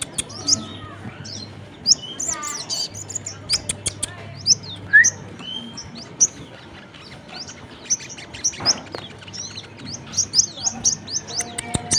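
Sogon and kolibri kelapa sunbird lure calls: rapid, high-pitched chirps and tweets repeated in quick bursts, with a short trill about two seconds in. These are the contact calls that bird-catchers play to draw the birds in to gather.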